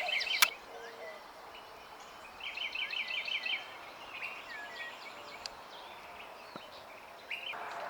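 Wild birds singing: a rapid trill of repeated high chirps at the start and again about two and a half seconds in, with scattered shorter calls over a faint outdoor hiss.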